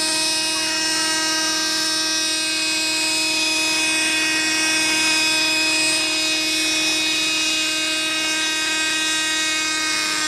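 Small model-aircraft engine running flat out with a steady high-pitched whine, the pitch sinking slightly at the very end.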